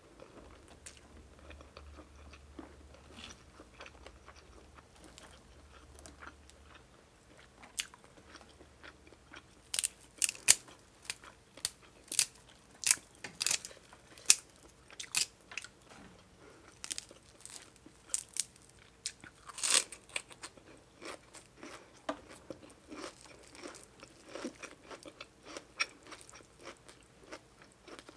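A person eating close to the microphone: chewing and biting with crisp, irregular crunches. It is quieter at first, and the crunches grow frequent and sharp from about ten seconds in.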